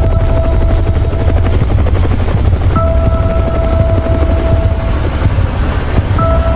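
Helicopter rotor sound effect, a loud steady chopping in the low end. Over it, a held electronic tone sounds for about two seconds and comes back about every three and a half seconds.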